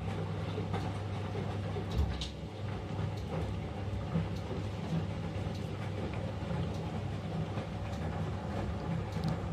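Eudora 38 Super washing machine running, plausibly in its rinse stage: a steady low motor hum and drum rumble, with a few short knocks about two seconds in and near the end.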